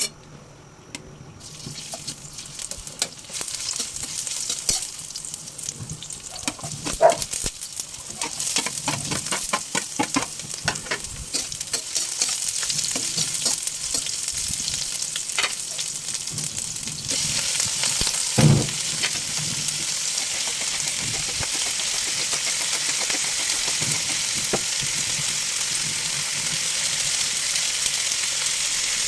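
Food sizzling in hot oil in a pan while being stirred, the utensil clicking against the pan. The sizzle starts about a second in, gets louder a little past halfway, and there is one heavier knock about two-thirds of the way through.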